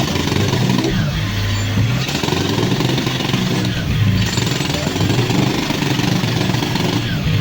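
Kobelco mini excavator's diesel engine running steadily under working load, swelling louder a few times as the hydraulics take the strain.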